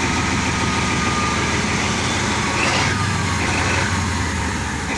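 Caterpillar 3512 V12 industrial diesel engine, mechanically governed, running steadily with a dense low rumble.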